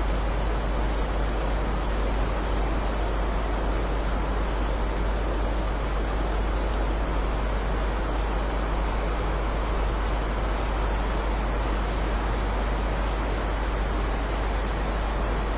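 Heavy rain falling as a steady, even hiss, with a constant low rumble beneath it; no single drops or thunder stand out.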